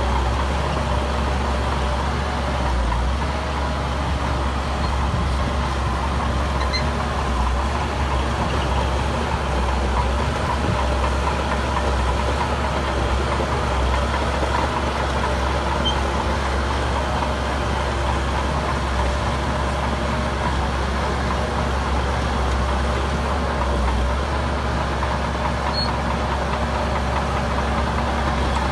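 Diesel engine of heavy earthmoving machinery running steadily at an even pitch, with no revving.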